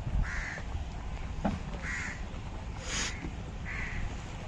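A crow cawing three times, about one harsh call every second and a half, over a steady low rumble.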